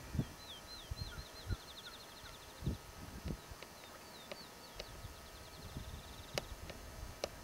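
A small songbird singing: a string of quick, high repeated chirps that speed up into a fast trill, twice over. A few dull low thumps come in the first few seconds, and two sharp clicks near the end.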